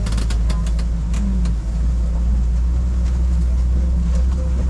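Safari ride truck's engine running with a steady low drone, with a quick run of knocks and rattles in the first second or so.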